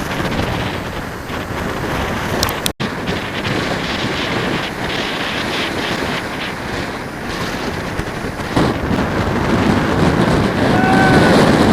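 Strong wind blasting across the microphone over surf breaking on the shore, a steady loud rush. The sound drops out for an instant about three seconds in.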